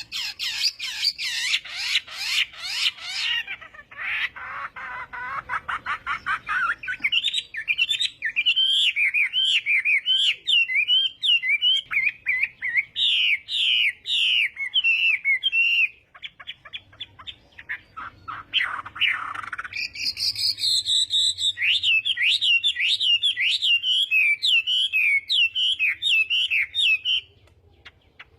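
Chinese hwamei singing a loud, varied song: stretches of rapid repeated notes alternate with runs of slurred whistled phrases, and the song stops about a second before the end.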